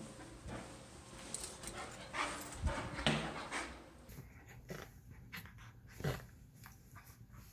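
A dog panting in quick breaths, which fade out about halfway through, leaving only a few faint ticks.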